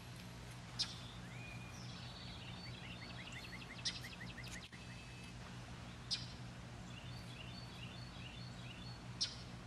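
Wild birds calling outdoors: scattered chirps, a quick run of about a dozen short sloping chirps near the middle, and four sharp, high chips spaced a couple of seconds apart, over a steady low hum.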